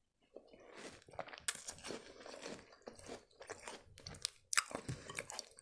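Close-miked chewing of crunchy sandwich biscuits: many quick, irregular crunches, with one sharper, louder crunch about four and a half seconds in.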